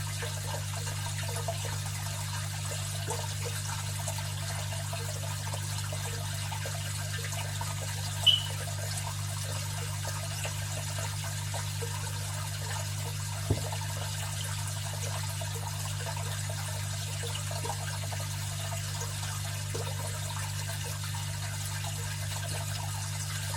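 Aquarium filter running, a steady low motor hum under trickling, bubbling water. A short, sharp high-pitched chirp stands out about eight seconds in, with a faint click a few seconds later.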